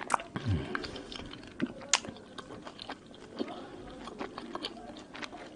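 A person chewing a mouthful of mandarin orange segments: soft wet chewing broken by several sharp wet mouth clicks.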